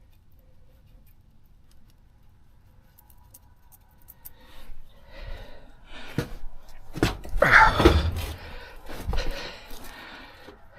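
Hand tools and metal parts knocking and clattering during brake work, with several sharp knocks and a scrape that slides down in pitch, loudest about seven to eight seconds in.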